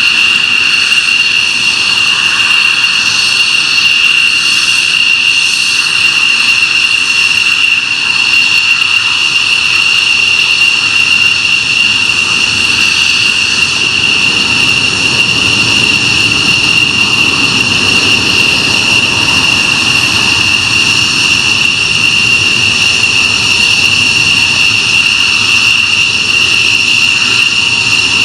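Military jet engines running loud and steady: a constant high whine over a broad roar, with the low rumble swelling somewhat through the middle.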